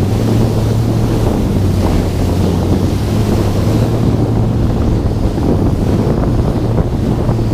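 Jet ski engine running at a steady speed, heavily buffeted by wind on the microphone, with water rushing past.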